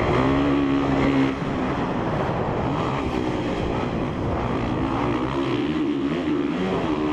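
2017 Honda CRF450R single-cylinder four-stroke dirt bike engine under throttle, easing off a little over a second in, then revving up and down.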